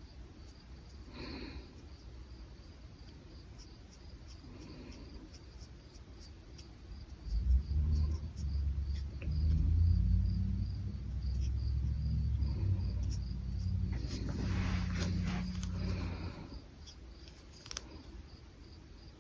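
Crickets chirping in an even pulsing rhythm, with a few soft scratchy brush-pen strokes on paper. About seven seconds in, a louder low rumble starts and stops a few seconds before the end.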